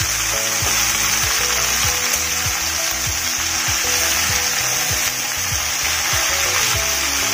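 Red amaranth (lal shak) leaves sizzling in hot mustard oil as they are stirred and turned with a metal spatula in a frying pan; a steady frying hiss.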